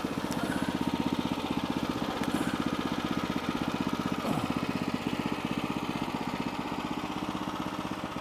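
Sawmill engine running steadily with an even, rapid putter.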